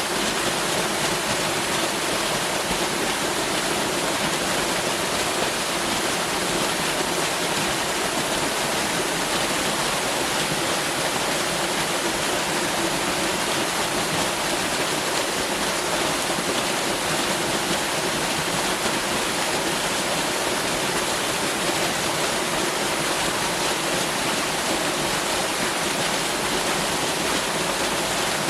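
Waterfall: water pouring and splashing in a steady, unbroken rush with no change in level.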